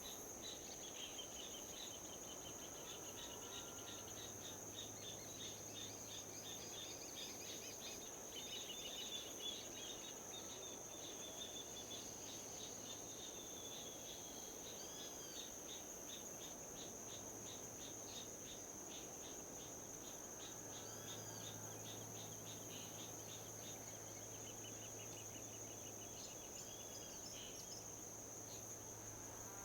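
Insects chirping in a fast, even rhythm over a continuous high-pitched insect drone, with a few short bird calls here and there, all over a soft, steady rush of wind.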